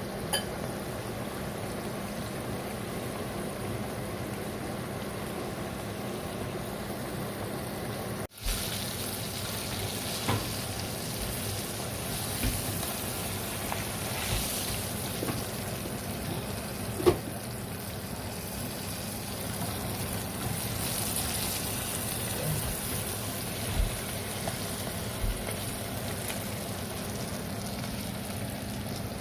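Chicken pieces frying in hot oil, a steady sizzle. There are a few light knocks here and there, and a brief cut-out about eight seconds in.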